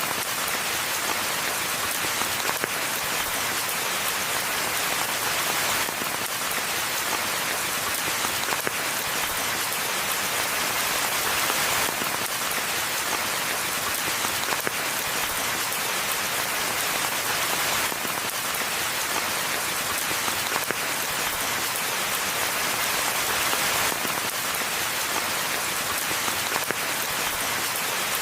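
Steady rainfall: a dense, even patter of drops with a bright hiss and little low rumble, swelling slightly about every six seconds.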